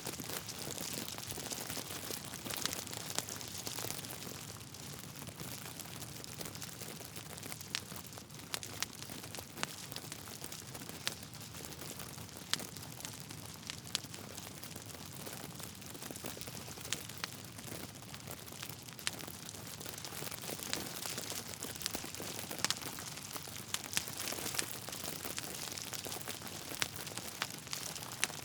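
Burning logs in a fireplace crackling steadily over a soft hiss, with frequent irregular sharp pops and snaps.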